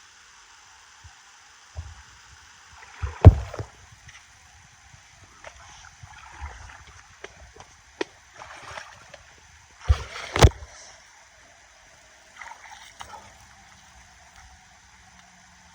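River water running steadily, with a few sharp knocks and thumps over it: the loudest about three seconds in and two more close together near ten seconds, plus scattered small clicks.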